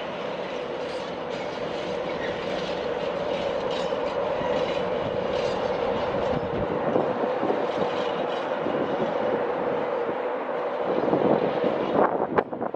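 A train moving through the station: a steady running noise with a held mid-pitched tone and scattered clicks, a little louder near the end.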